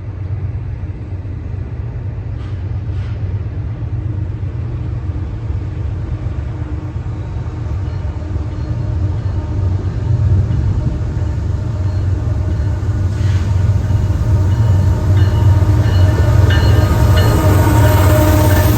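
CPKC unit grain train's diesel locomotives approaching with a steady low rumble that slowly grows louder. Faint engine tones rise into the sound over the last several seconds.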